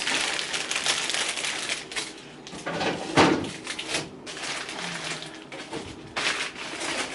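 Plastic cheese packaging rustling and crinkling as it is handled, with a sharper knock about three seconds in.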